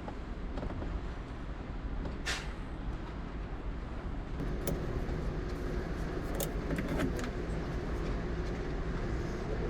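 Lorry engine idling with a steady low hum, with a sharp click about two seconds in and a few more clicks and knocks around the middle.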